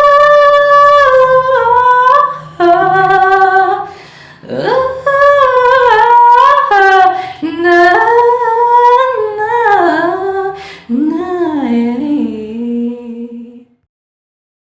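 Unaccompanied solo voice singing a cappella in a small room, in sliding melodic runs that bend up and down. It ends on a lower held note that cuts off near the end.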